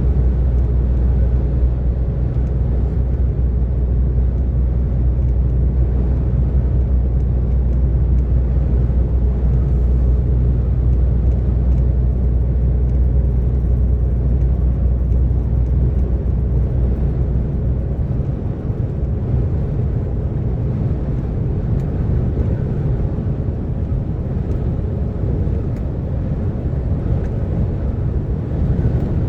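DAF XF 460 truck's six-cylinder diesel running steadily at motorway speed over road and tyre rumble. About two-thirds of the way through, the deep engine drone drops away and mostly road noise is left.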